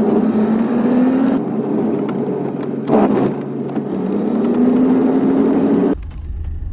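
A vehicle engine running while driving, its note sinking and then rising again with speed. There is a single knock about three seconds in. About six seconds in the sound cuts off abruptly to a low rumble, like wind on the microphone.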